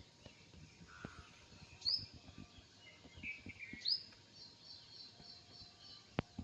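Small bird calling: separate sharp high notes, then a quick run of repeated high chirps, about five a second. A single sharp click near the end.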